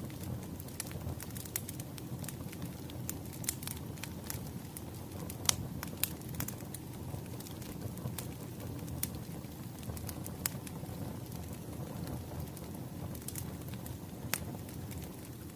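Wood fire crackling: irregular sharp pops and snaps over a steady low rumble of burning logs, with one louder pop about five seconds in.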